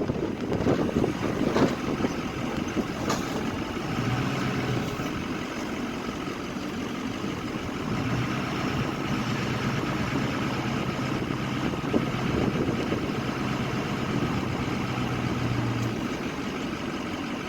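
Plow truck's engine idling steadily. A low, even hum comes in briefly about four seconds in and again from about eight seconds until near the end, and a few knocks sound in the first few seconds.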